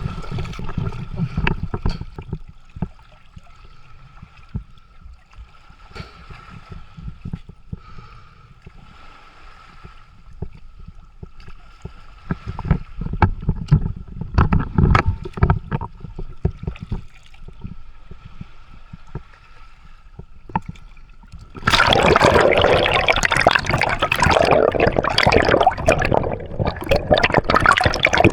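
Sea water gurgling, with scattered clicks and a faint steady tone; about three-quarters of the way through, a loud, dense rush of churning water starts suddenly and carries on.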